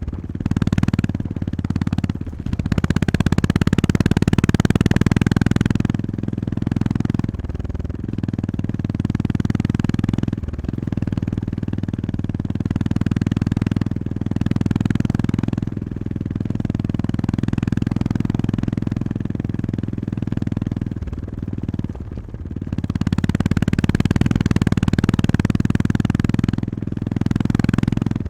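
Honda GB350S's air-cooled 348 cc single-cylinder engine running as the motorcycle is ridden. Its note rises and falls with the throttle, with brief dips a few times.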